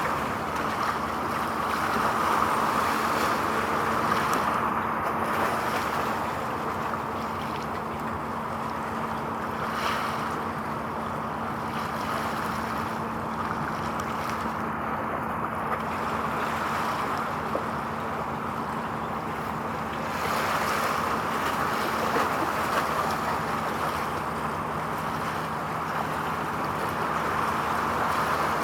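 Wind rushing over the microphone by the water, rising and falling in gusts, over a steady low hum; a second, lower hum joins about two-thirds of the way in.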